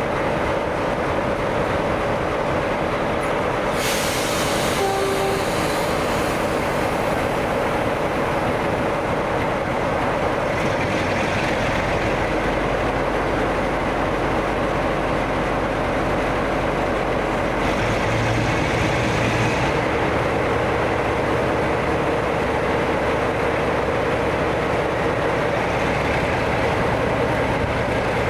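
A train moving, with steady running noise throughout and a brief hiss about four seconds in.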